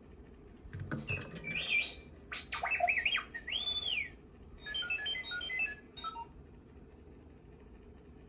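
R2-D2 beeps and whistles played through the small speaker of a lights & sound R2-D2 Funko Pop figure: a few clicks, then warbling chirps, a rising-and-falling whistle and a quick run of stepped beeps.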